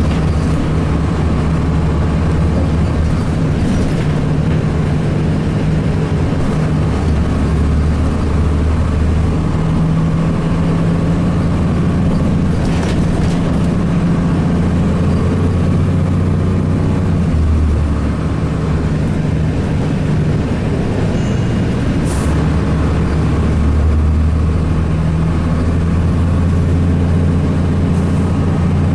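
Cummins ISC diesel engine of a 2002 Blue Bird CS transit bus running steadily, its low note rising and falling as the bus drives. A few brief sharp knocks or rattles cut through now and then.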